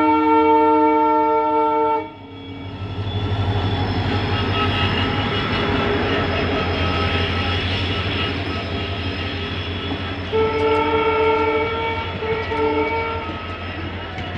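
Indian Railways train horn blaring, cutting off about two seconds in, followed by the steady rumble and rattle of the train rolling along the track. About ten seconds in the horn sounds again in short broken blasts.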